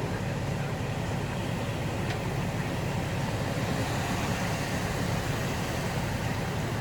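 Steady road and engine noise from inside a moving pickup truck driving through heavy rain.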